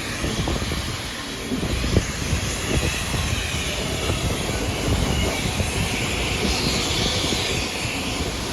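Steam-hauled passenger train running along the line, heard from on board: a steady rumble and rush of wheels on rail and passing air, with a few scattered clicks from the track.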